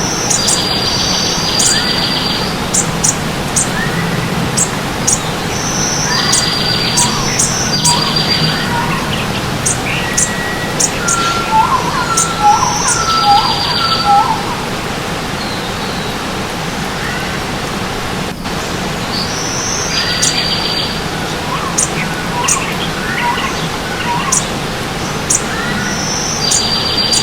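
Several birds chirping and calling over the steady rush of running stream water: many short high chirps, repeated short trills and lower whistled notes, with a quieter spell midway.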